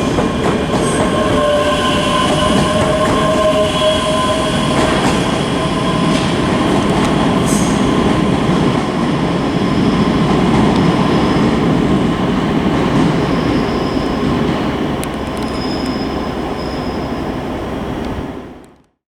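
Train moving through a station with a steady rumble and high, held wheel squeal. The sound fades and cuts off near the end.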